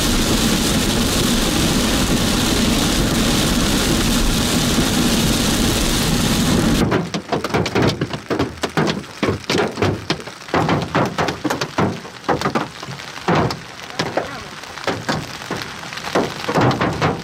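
Large hailstones pounding down in a dense, continuous roar. About seven seconds in it changes abruptly to separate hailstones striking one by one, sharp knocks at irregular short intervals, as the hail turns sporadic.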